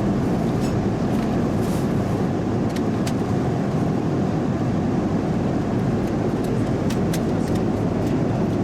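Steady cabin noise of an Airbus A330-300 airliner in flight: the even rush of air and engine noise heard inside the cabin, with a few faint clicks over it.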